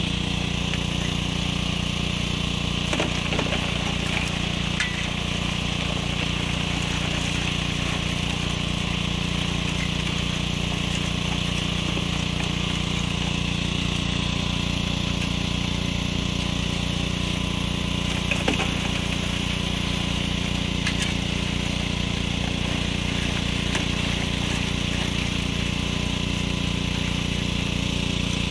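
A small engine running steadily at a constant speed, with a few light knocks about four seconds in and again past the middle.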